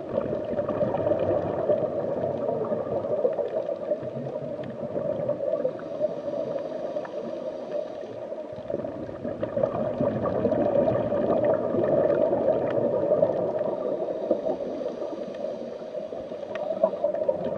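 Steady underwater gurgling and bubbling of water.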